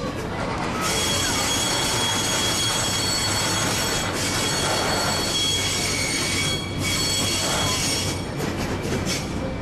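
Excursion train's steel wheels squealing against the rails, several steady high-pitched tones over the rumble of the moving cars. The squeal eases briefly about four seconds in and again near seven seconds, then returns.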